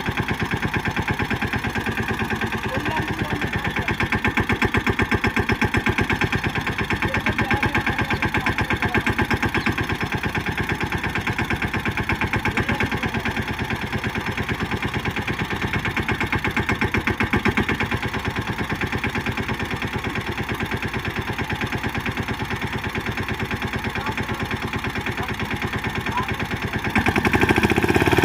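Tractor engine running steadily with an even, rapid firing pulse, then getting louder and heavier near the end.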